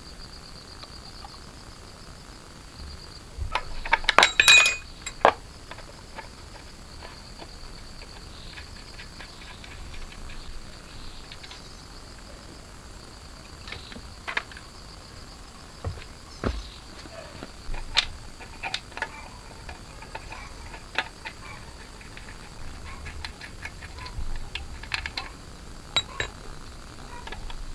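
Scattered metal clinks and taps of tools and small parts being handled, loudest in a quick cluster about four seconds in, over a steady high chirring of insects.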